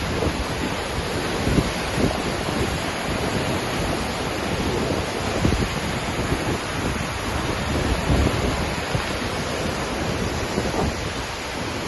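Waterfall rushing in a steady, dense roar of falling water, with gusts of wind buffeting the microphone in the low end.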